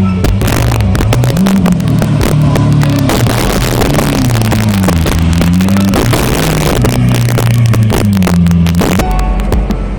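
Sports car engine revving and accelerating, its pitch rising and falling several times, with a loud rush of exhaust and road noise through the middle.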